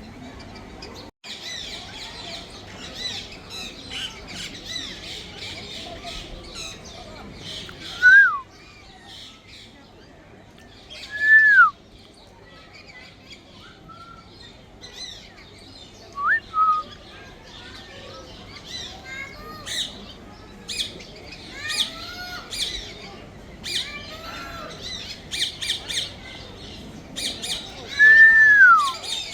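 African grey parrot whistling: four loud pitched whistles, mostly sliding up and then down. Busy high chirping and squawks run underneath.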